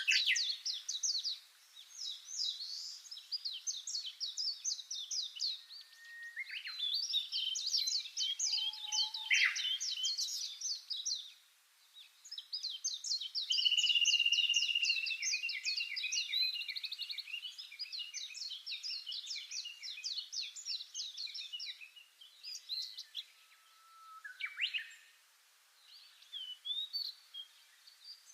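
Birdsong: rapid trills of high chirps in repeated phrases, with short pauses between them.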